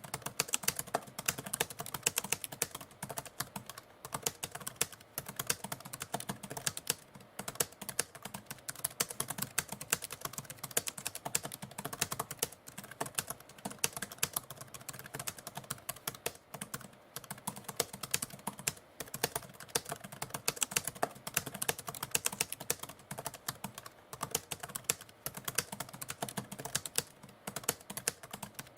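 Typewriter keys clacking in fast, continuous typing, broken by a few brief pauses.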